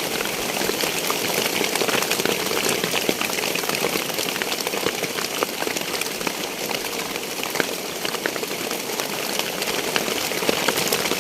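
Heavy rain falling on a hut's roof: a steady hiss with many small drop ticks.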